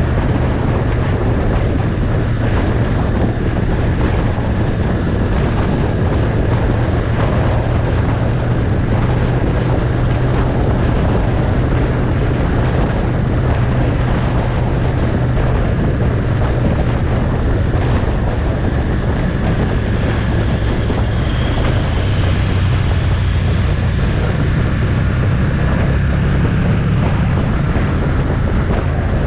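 Motorcycle engine running at a steady cruising speed, with heavy wind rushing over the microphone; the engine note shifts slightly a little past the middle.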